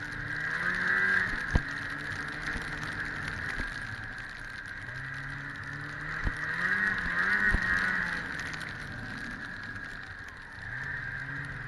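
1997 Ski-Doo MXZ 670's two-stroke engine running on the trail, speeding up and easing off twice, with a couple of sharp knocks about one and a half and seven and a half seconds in.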